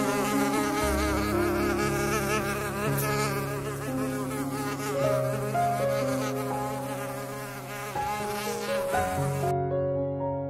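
A flying insect buzzing with a wavering pitch, which stops shortly before the end, over soft sustained background music chords.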